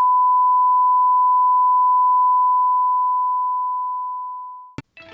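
A single steady electronic test tone, one pure pitch, holding level for about two seconds and then fading away over the next two. A sharp click follows, and music starts right at the end.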